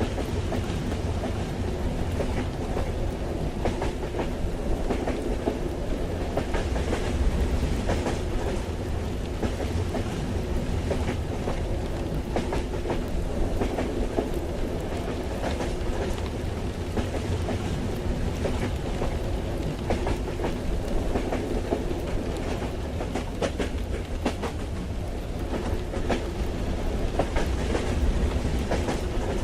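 Moving train heard from inside the carriage: a steady low rumble with the clickety-clack of wheels over the rail joints.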